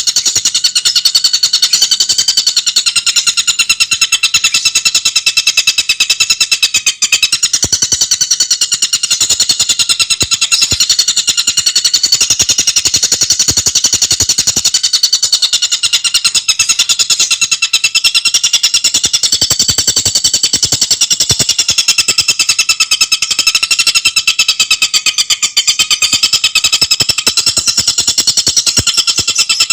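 Tengkek buto bird calling in a continuous, very rapid chatter, several high notes at once, without a break.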